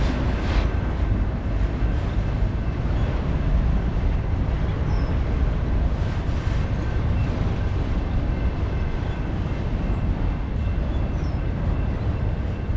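Freight train of auto rack cars rolling slowly past, a steady low rumble with no distinct wheel clicks.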